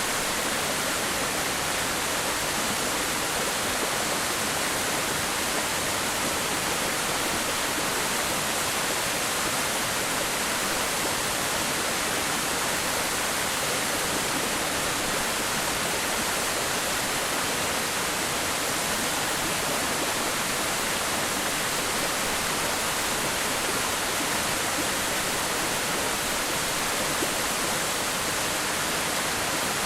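Waterfall pouring into its plunge pool: a steady, unbroken hiss of falling water.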